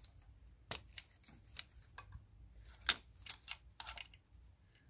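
Irregular clicks, taps and light knocks of hard parts being handled as the fuel pipes are pulled off a diesel engine's injectors, the sharpest knock about three seconds in.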